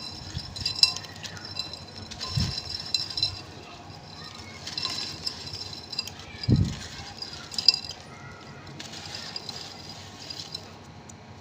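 Gritty charcoal being crumbled, in several short spells of crackling and crunching, with two low thumps in between.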